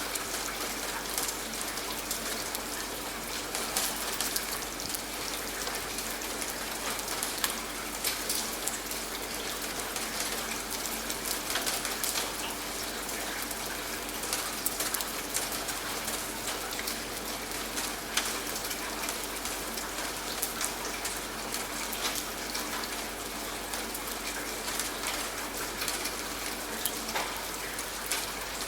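Steady rain falling, with a dense, even patter of individual drops hitting a surface.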